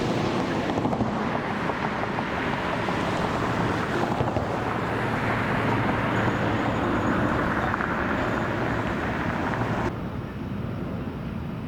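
Outdoor field recording: wind buffeting the microphone over a steady rumble of distant traffic. About ten seconds in, the noise drops suddenly to a lower, duller level.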